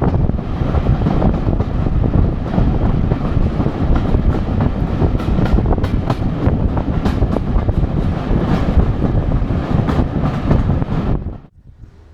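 Train running along the track: a loud, steady rumble with scattered clicks and rail clatter, cutting off sharply near the end.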